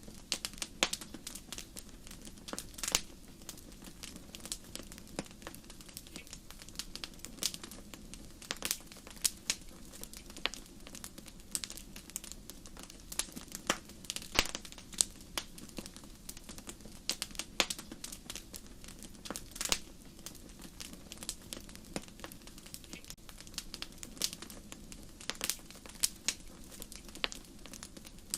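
Wood fire crackling: irregular sharp snaps and pops, a few louder than the rest, over a low steady hiss of burning.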